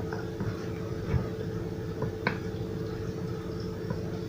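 A spoon stirring tahini mixed with lemon juice and vinegar in a bowl, the spoon giving a few light clicks against the bowl over a steady background hum.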